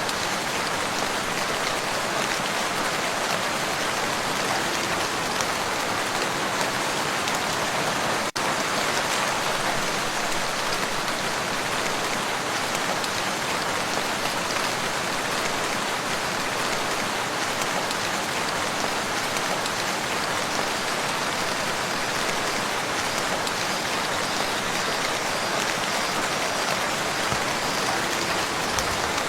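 Steady, heavy rain falling on a lake's surface, a dense even hiss of countless drops. About eight seconds in, the sound drops out for a split second.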